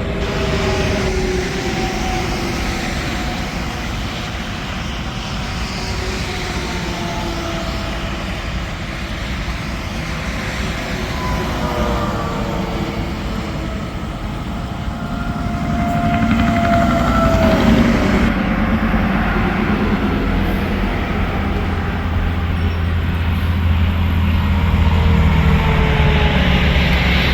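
Interstate traffic going past, mostly semi trucks: a steady wash of engine and tyre noise with tones that fall in pitch as each vehicle passes. A heavier, deeper truck passes about two-thirds of the way through.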